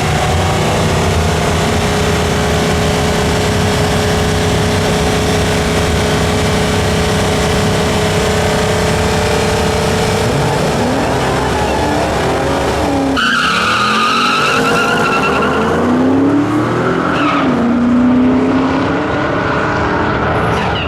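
Race car engines running at steady high revs, several engine tones held level. From about 11 seconds in the pitches fall and rise as the engines change speed. A high whine starts abruptly about 13 seconds in.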